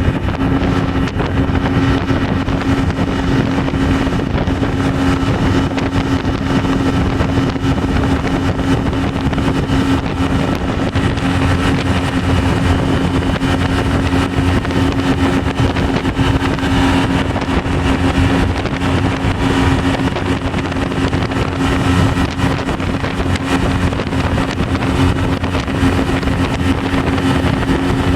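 Speedboat engine running steadily at speed, a constant drone over a steady rushing noise.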